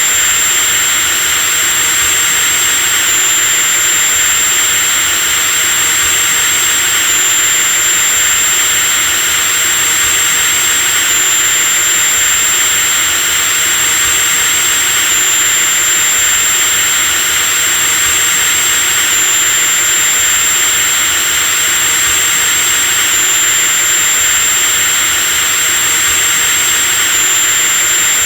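Electric drill running continuously at a steady speed: a constant high-pitched whine over steady motor noise.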